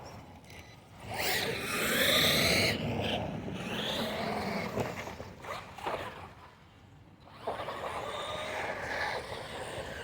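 RC monster truck's motor whining as it is revved up and down, in two spells with a quieter gap in between.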